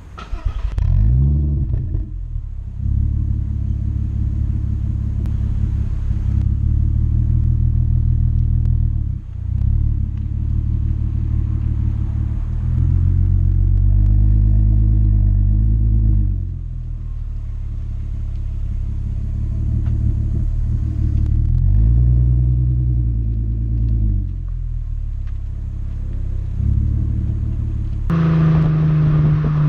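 Exhaust of a VW Golf Mk4 2.8 V6 (BDE) through a stainless Friedrich Motorsport rear silencer with the stock catalytic converter, running at idle and being revved several times, each rev rising and falling back. Near the end the engine is held at a steady, higher speed.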